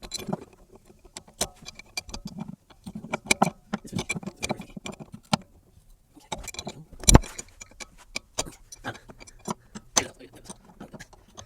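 Metal clinks, taps and scrapes of a spanner wrench hooked into the grooves of a coilover's lock ring as it is tightened down, with one louder metallic knock about seven seconds in. The lock ring had been left loose, letting the shock move and make noise.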